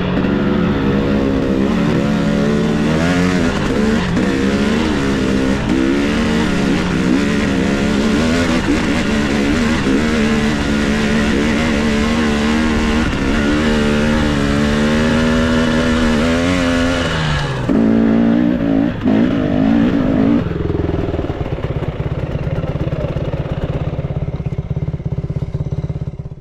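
Dirt bike engine under way, its pitch rising and falling constantly as the throttle is worked. About twenty seconds in it settles to a steady low idle, which cuts off suddenly at the end.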